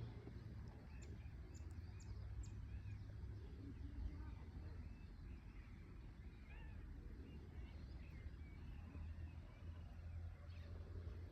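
Faint birds chirping, many short calls scattered throughout, over a steady low rumble.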